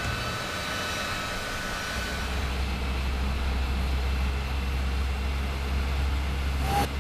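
Steady noise of a C-17 Globemaster III's jet engines running: a deep rumble under a broad hiss, with a brief louder swell near the end.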